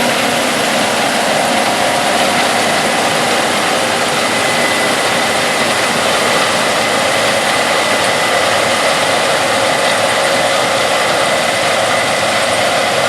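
Case IH 8250 Axial-Flow combine harvesting corn: loud, steady machine noise, with a thin high whine running through most of it.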